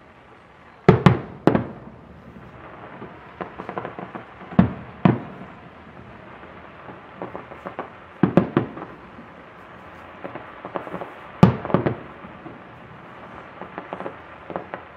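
Aerial fireworks bursting: groups of sharp bangs, often two in quick succession, every few seconds, with lighter crackling between them.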